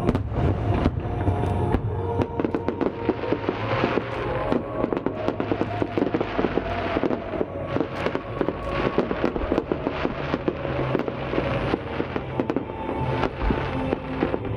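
Large fireworks display bursting continuously, a rapid stream of bangs and crackles several to a second, over music playing along with the show.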